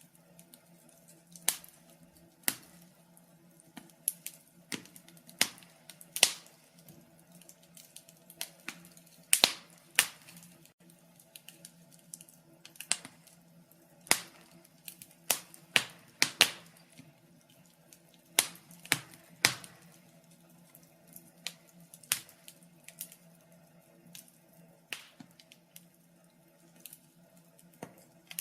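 Wood fire crackling: irregular sharp pops and snaps, a few each second, some much louder than the rest, over a faint steady low hum.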